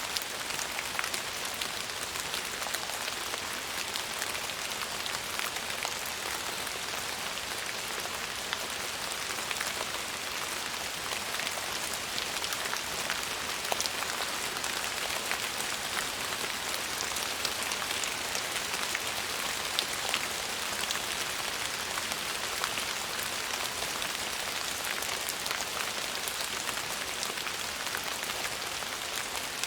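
Steady rain falling on a surface: a dense, even hiss of drops with scattered sharper drop ticks.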